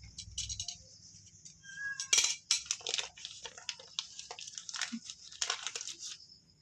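Hands handling potting materials: an irregular run of rustling and crinkling with light clicks and clinks.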